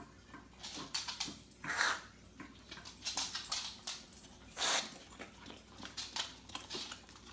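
A dog making short, noisy sounds, spaced out with pauses; the two strongest come about two seconds and nearly five seconds in.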